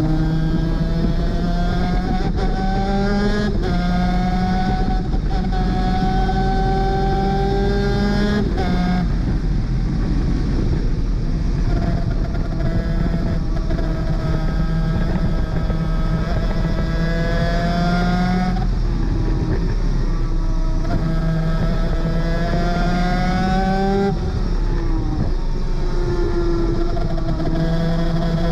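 Superkart 250's two-stroke engine at full throttle on track, its pitch climbing through each gear and dropping sharply at each upshift, several times over, with a short stretch off the climb in between.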